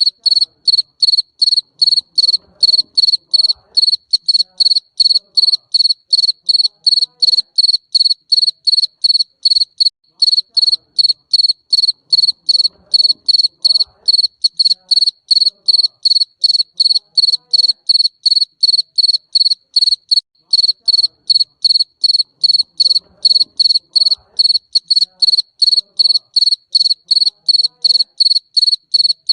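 Garden cricket chirping steadily: short high-pitched chirps in an even rhythm, about three a second.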